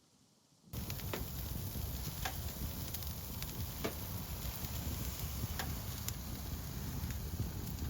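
Wood-burning tent stove with its fire going: a steady hiss and rumble with sharp crackles and pops every second or so, starting abruptly under a second in after near silence.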